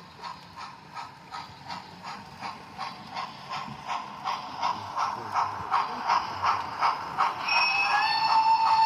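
A garden-scale model train running on the track, its regular clicking beat of about three to four strokes a second growing louder as it comes closer. A steady high tone joins about seven and a half seconds in.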